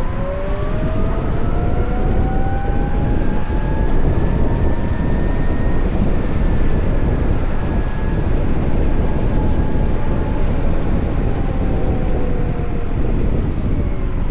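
VMoto Stash electric motorcycle's motor whining as the bike rides, rising in pitch over the first six seconds or so as it speeds up, then slowly falling, over steady wind and road noise.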